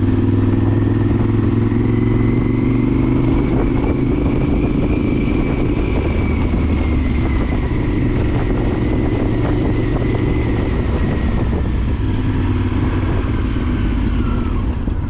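Honda Varadero XL1000's V-twin engine running steadily while riding, with a faint whine that drifts slowly up in pitch and back down.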